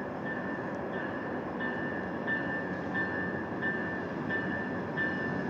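GO Transit train led by an MP40PH locomotive rolling into the station, a steady rumble of wheels and cars. Over it, a high ringing tone repeats about one and a half times a second.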